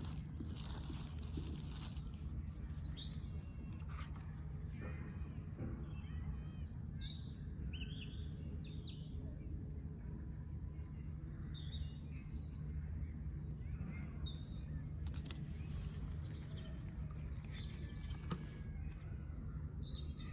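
Small birds chirping: short, scattered chirps throughout, over a steady low hum, with a few soft clicks and rustles of tarot cards being handled.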